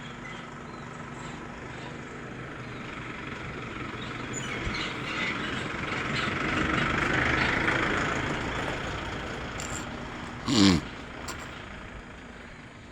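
A vehicle passes by, its noise growing to a peak about halfway through and then fading away. Near the end, a short, loud pitched sound slides sharply down in pitch.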